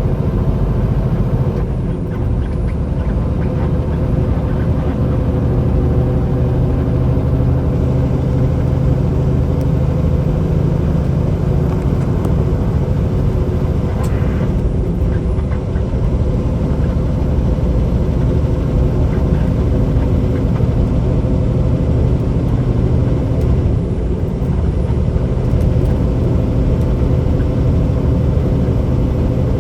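Peterbilt 389 semi truck's diesel engine and road noise heard inside the cab while cruising, a steady low drone with no change in pitch.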